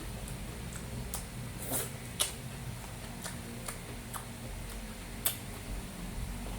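Eating sounds from a person eating: scattered mouth clicks and smacks with the odd utensil tick, two sharper clicks about two and five seconds in, over a low steady hum.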